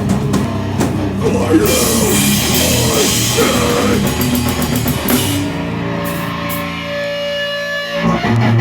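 Live heavy rock band playing, with distorted guitars and a drum kit. After about five seconds the drumming stops and the guitar chords are left ringing and feeding back, as at the close of a song.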